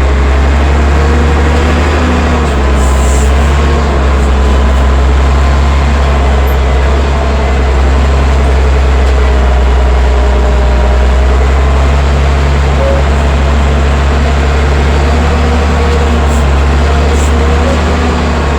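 Allis-Chalmers 940 wheel loader's diesel engine running steadily, a loud, deep, even drone.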